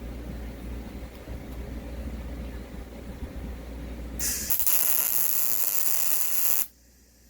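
Welding on a steel mount: a crackling buzz over a low hum, turning into a louder, brighter steady hiss about four seconds in, which cuts off suddenly near the end as the arc stops.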